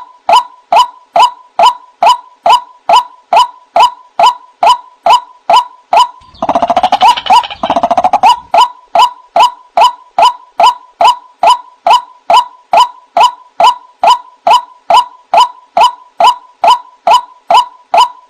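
White-breasted waterhen (ruak-ruak) calling a fast run of short "wak" notes, about three a second. About six seconds in, a harsher, fuller call overlaps the run for a couple of seconds.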